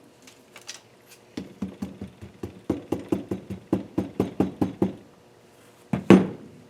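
Rapid metal-on-metal tapping from parts being worked loose in a KA24DE cylinder head, about four or five taps a second for some three and a half seconds, then a louder double knock near the end.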